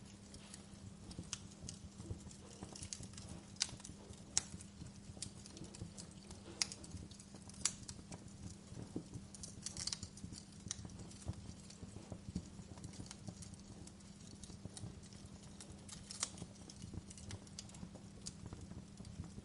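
Fireplace crackling: irregular pops and snaps from a burning wood fire, some louder than others, over a low steady hum.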